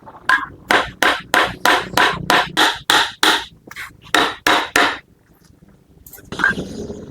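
A hand hammer striking metal in a steady run of blows, about three a second, stopping about five seconds in; softer scraping and handling noise follows.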